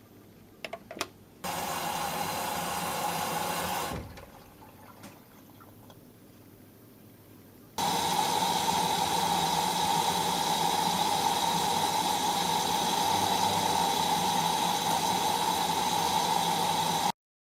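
Whirlpool washing machine filling with cold water through its inlet valve: a few clicks, a short rush of water, then a steady rush with a steady whine for about nine seconds, cut off suddenly near the end.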